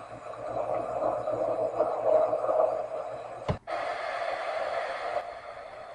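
Rain from a storm coming down as a steady hiss, briefly cut off by an abrupt break about three and a half seconds in.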